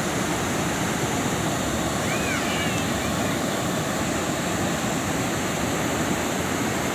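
Heavy rain falling in a steady downpour, with a brief high chirp a little after two seconds in.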